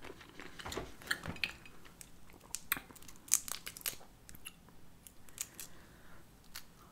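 A person chewing and biting cocktail shrimp: quiet, scattered wet clicks and crackles of eating.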